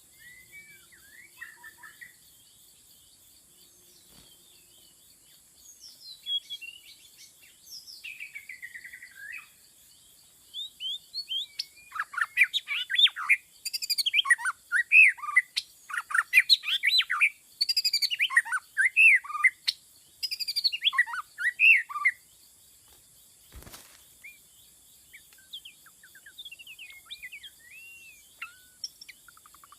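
White-rumped shama (murai batu) singing a varied song of quick whistled phrases, sparse at first, then a long, loud run of rich phrases in the middle, and softer again toward the end. A single sharp click sounds about two-thirds of the way in.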